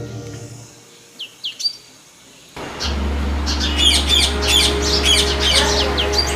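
Songbirds chirping: at first a few quick falling chirps over music that is fading out, then about two and a half seconds in a louder birdsong recording cuts in suddenly, with dense runs of quick falling notes, several a second, over a steady low hum.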